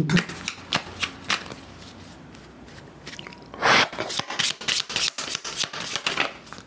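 A deck of oracle cards being shuffled by hand: scattered card clicks, then a burst of riffling and a quick run of card slaps in the second half.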